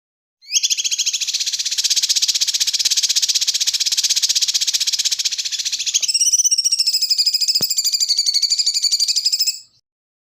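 A songbird's very rapid, dense buzzing trill, recorded song material of the kind used to train white-rumped shamas (murai batu). About six seconds in it changes to a rattling, wavering trill, which stops abruptly near the end.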